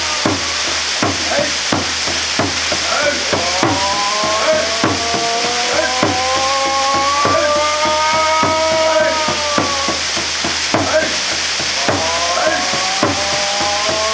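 Waterfall pouring down in a steady rush with sharp splashing crackles. Over it run long held tones that waver slowly in pitch, dropping out about two thirds of the way through and returning near the end.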